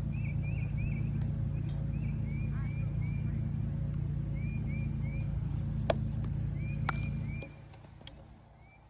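A steady low rumble that drops away suddenly about seven seconds in, under repeated short high chirps in small groups and two sharp clicks about a second apart.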